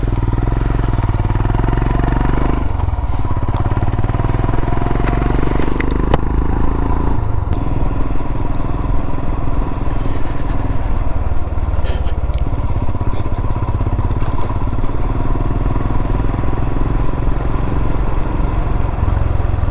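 Royal Enfield Himalayan single-cylinder motorcycle engine running under way, heard from the bike. The engine note dips briefly about three seconds in and again about seven and a half seconds in.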